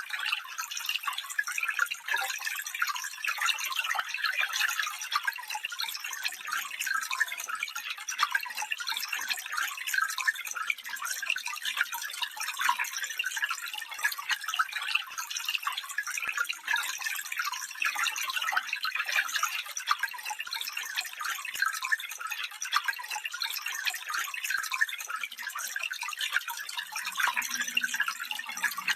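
Stream water running steadily over stones, a dense trickling and splashing without low rumble.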